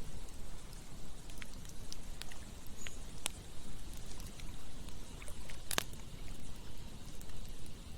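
Campfire crackling, with scattered sharp pops, the loudest about six seconds in, over the steady rush of flowing river water.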